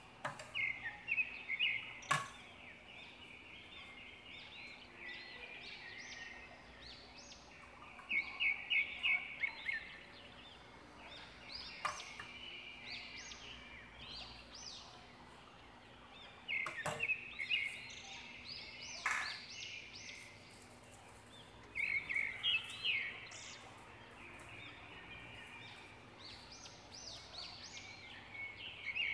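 A bird calling in repeated bouts of rapid chattering notes, each bout lasting a second or two and coming back every several seconds. A few sharp clicks come in between.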